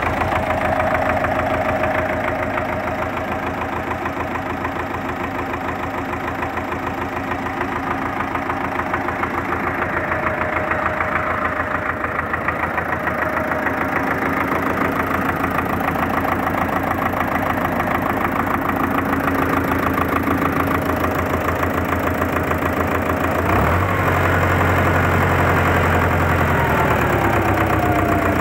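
D-243 four-cylinder diesel tractor engine idling steadily with an even firing rhythm, running on its freshly repaired fuel injection pump. About three-quarters through a deeper low hum comes in, and a falling whine is heard near the end.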